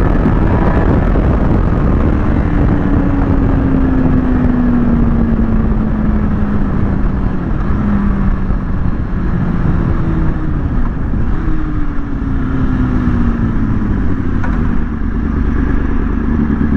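Kawasaki ZX-6R inline-four engine running under way with wind rush on the microphone. The engine note falls slowly twice as the revs drop, then holds steady near the end.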